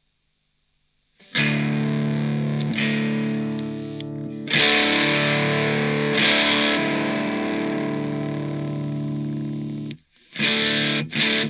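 Electric guitar on its neck and middle single-coil pickups, played through a Fender Santa Ana Overdrive pedal: overdriven chords struck and left ringing after about a second of near silence. The chords are cut off briefly near the end, then struck again twice.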